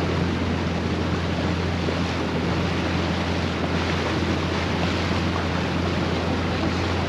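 Steady wind noise on the microphone over water washing past a felucca on the river, with a low steady hum underneath.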